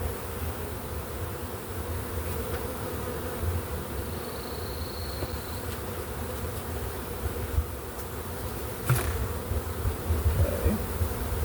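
A swarm of honey bees buzzing steadily around an open hive as they are worked. A single sharp knock sounds about nine seconds in, and the buzzing grows a little louder after it.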